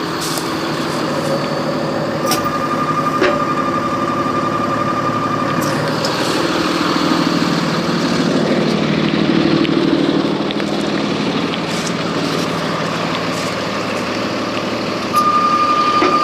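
Work truck's engine running as the truck moves forward, swelling a little partway through. A steady high-pitched warning tone sounds twice, for a few seconds each time, with a few clicks.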